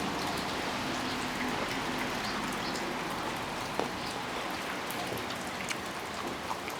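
Rain falling steadily, with scattered single drops ticking throughout.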